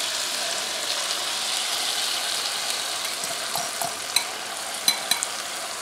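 Soy and honey sauce sizzling steadily as it is poured onto chicken and vegetables frying in a hot pan, easing a little over time, with a few light clicks in the second half.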